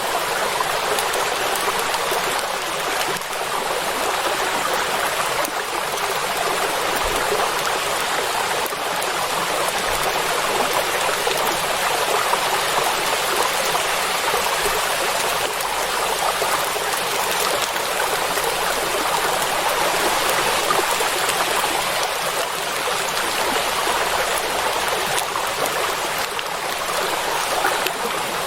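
Steady heavy rain falling onto a lake, an even unbroken hiss with little deep rumble.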